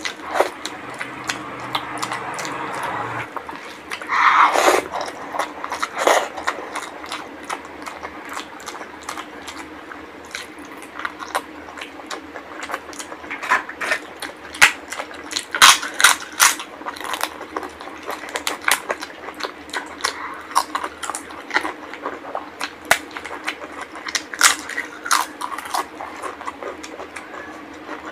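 Close-miked eating sounds of a mouthful of rice and curry eaten by hand: wet chewing and lip smacking with many short, sharp mouth clicks, and one louder, longer chewing noise about four seconds in.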